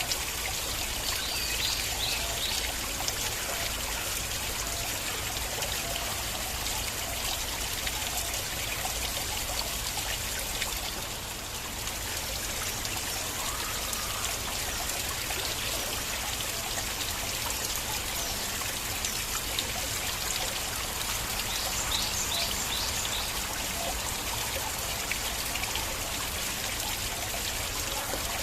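Stream water flowing and trickling steadily, dipping slightly in level about eleven seconds in.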